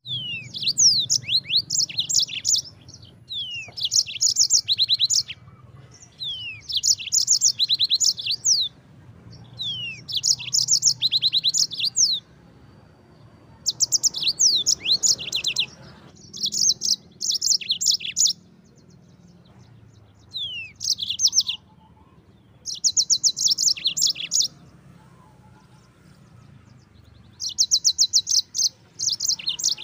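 Yellow-fronted canary (Mozambique canary) singing: repeated phrases of fast trills and sweeping chirps, each a second or two long, with short pauses between them.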